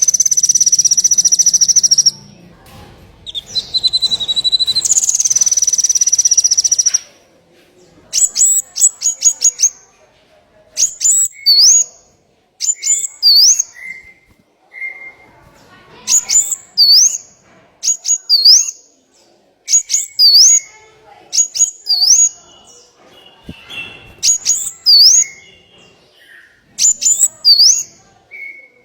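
Small songbird calling: a loud, high buzzing trill for about two seconds, another high trill from about three to seven seconds in, then a phrase repeated every second or two, a quick run of ticks ending in a sharp upslurred whistle.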